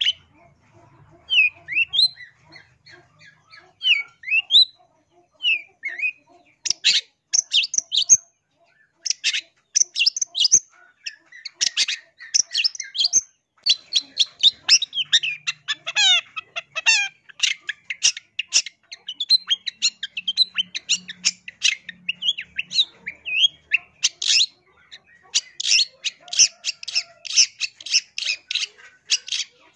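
Long-tailed shrike (cendet) singing. It starts with a few scattered short whistled notes, then from about seven seconds in runs into fast, dense trains of sharp chattering notes mixed with varied phrases.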